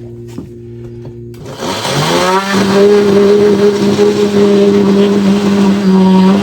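Cordless power saw starting up, its motor pitch rising over about a second, then running steadily and loud while it cuts an opening in the wall for an electrical box.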